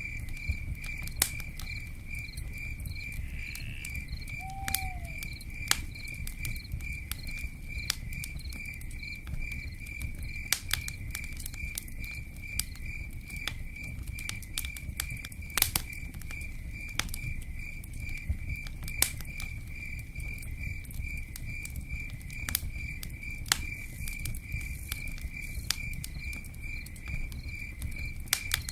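Campfire crackling with scattered sharp pops, while a cricket chirps in an even, unbroken pulse, over a steady low rush.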